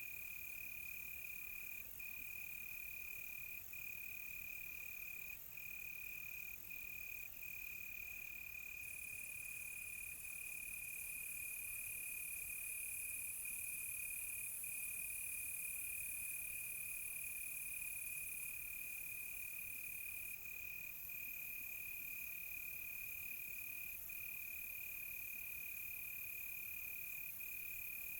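Crickets trilling in one continuous, steady high note that breaks off for an instant now and then. A fainter, higher insect hiss sits above it and changes a few times.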